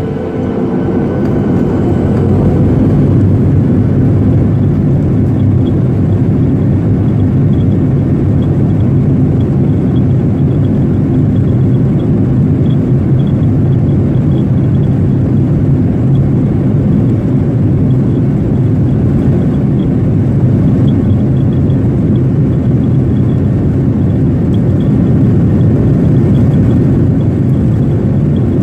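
Cabin noise aboard a Boeing 737-800: the CFM56-7B engines and airflow make a deep, steady rumble that grows louder over the first few seconds and then holds.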